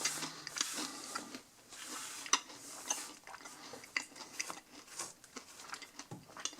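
A dry, crunchy Nature Valley Crunchy Oats & Honey granola bar being broken and crumbling, with irregular dry cracks and small clicks of falling crumbs.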